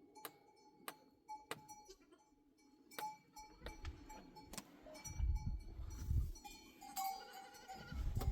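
Sheep bleating, with one clearer call near the end, over sharp clicks that come about every two-thirds of a second and a low rumble in the second half.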